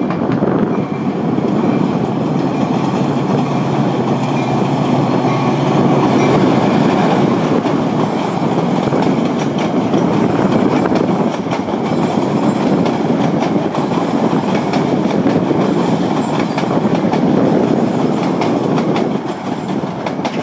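Diesel-hauled passenger train rolling close by below, a steady loud rumble of locomotive and cars, with wheels clicking over the rail joints.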